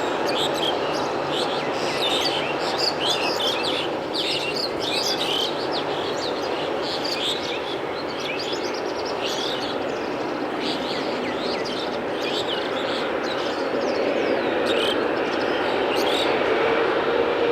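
Many small birds chirping over steady jet engine noise from airliners on the airfield. Near the end a steady engine whine comes in and the noise grows a little louder.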